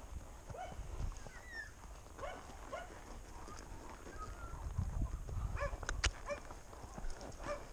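Wind rumbling on the microphone, with a series of short animal calls in the background and a sharp knock about six seconds in.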